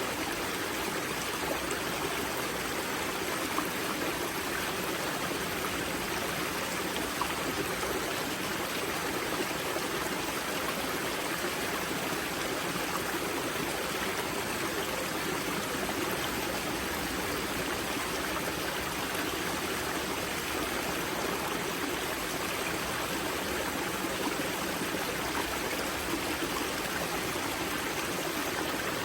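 Water of a karst spring wellhead pouring and babbling over rocks as the young Grza river, a steady, unbroken rush.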